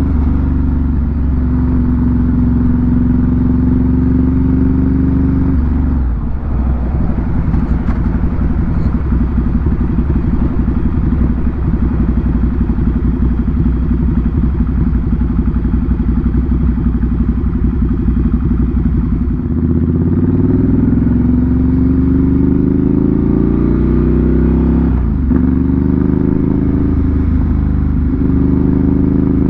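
Ducati Monster 797's air-cooled L-twin through an SC Project exhaust. It runs steadily at first, then drops about six seconds in to a lumpy, pulsing idle. Near two-thirds through it picks up and climbs in pitch, dips sharply once about five seconds from the end, and climbs again.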